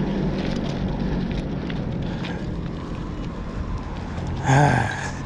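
Wind buffeting the microphone of a moving bicycle rider, a steady rushing rumble. Near the end a short, loud, voice-like cry cuts through.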